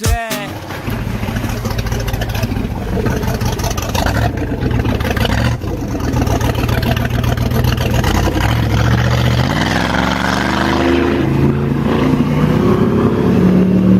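The Mercury 6.2 L V8 sterndrive engine of an 8.2 m sport cabin cruiser running under way over a steady rush of water and wind. Its pitch rises in steps over the last few seconds as the boat accelerates.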